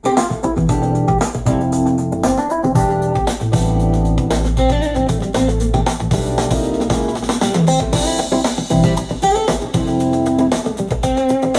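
Music with plucked guitar, keyboard and deep bass, played back through a portable Bluetooth speaker in a listening comparison.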